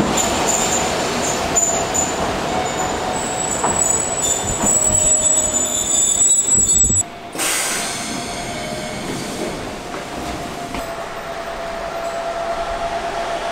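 Sangi Railway Hokusei Line narrow-gauge electric train rolling slowly along the platform, its wheels squealing with thin high tones over the rail noise. About halfway through the sound cuts abruptly to a quieter, steady hum with one held tone from the train standing at the platform.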